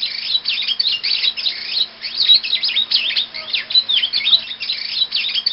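Birds chirping and twittering: many quick, overlapping chirps that run on without a break, over a faint steady hum.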